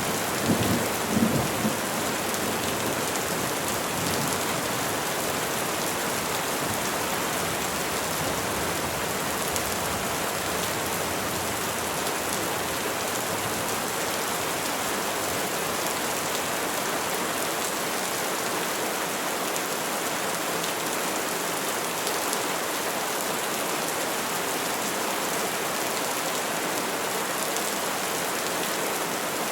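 Steady rain falling on trees, an even hiss, with a low rumble of thunder dying away in the first two seconds.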